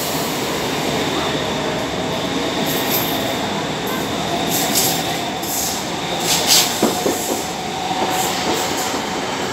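Electric multiple-unit passenger train running past along the platform edge: a steady rush of wheels on rail with a faint steady whine. A few short, sharp high squeaks and clicks from the wheels come about halfway through, the loudest about six and a half seconds in.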